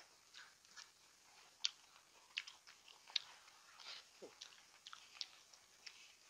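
A person chewing a mouthful of sweet and sour pork and rice, with faint, irregular soft clicks and smacks.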